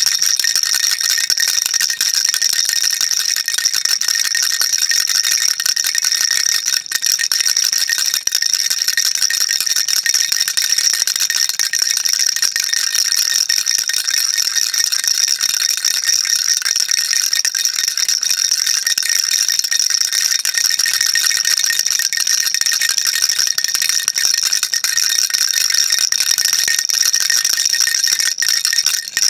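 A baby rattle shaken continuously, a dense, steady, high-pitched rattling of small beads with no pauses.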